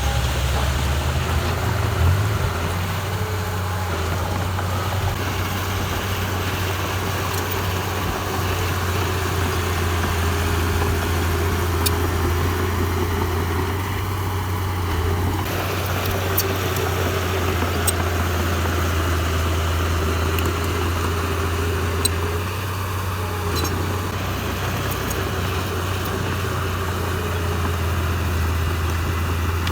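Heavy diesel engine of earthmoving equipment running steadily with a constant low hum, with a few faint metallic ticks now and then.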